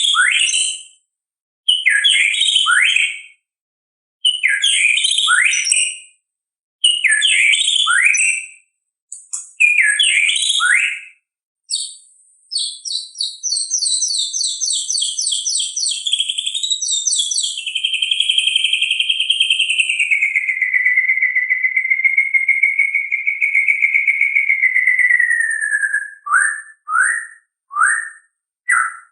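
White-rumped shama (murai batu) singing. It gives a string of short, rich whistled phrases, one every couple of seconds. Then comes a long unbroken run of rapid high chattering, and about halfway through a long wavering whistle starts beneath the chatter. It ends in a few quick clipped notes.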